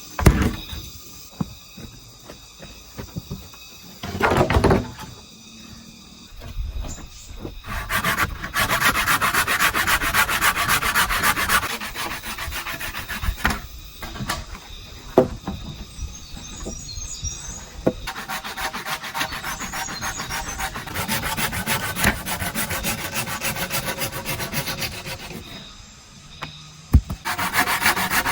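A blade working bamboo with rapid rasping strokes in long runs, broken by a few sharp knocks.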